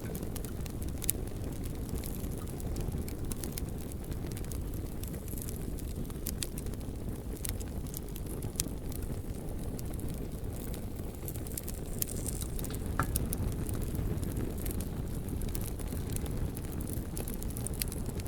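Campfire burning with scattered sharp crackles and pops, a handful of louder ones among many small ticks, over a steady low rumble.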